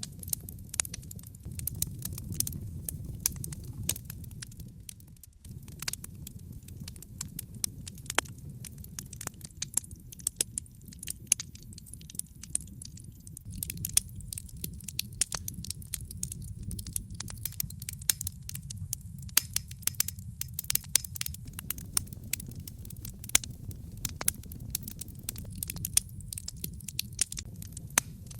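Wood fire burning in a fireplace: a steady low rumble of flames with many irregular sharp pops and snaps from the burning logs. The low rumble dips briefly about five seconds in.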